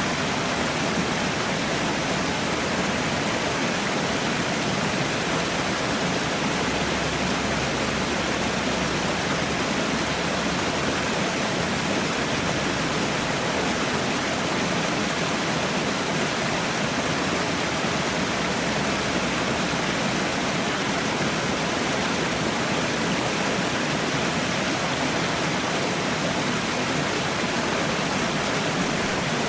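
Falling water pouring down in a steady, continuous rush with no breaks or changes.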